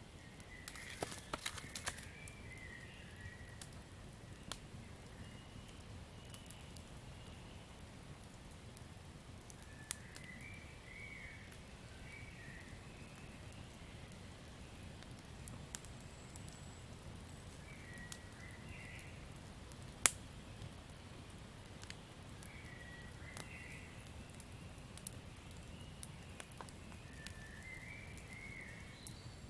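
Campfire crackling, with scattered sharp pops over a low rumble of the flames and one loud pop about twenty seconds in. Short chirping animal calls come every few seconds, in the manner of a night forest.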